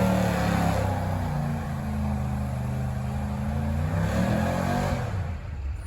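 Stock gasoline truck engine at a truck pull, its revs falling away and then holding steady, with a brief rise in pitch near the end before it fades.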